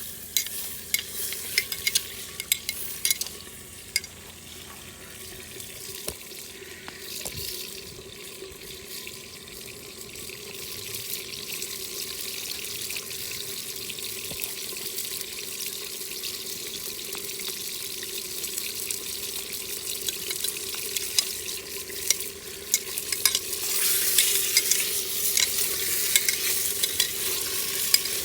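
Food sizzling as it fries in a pot over a wood fire, with the sharp clicks of a utensil stirring it during the first few seconds. The sizzle grows steadily louder about halfway through and again near the end.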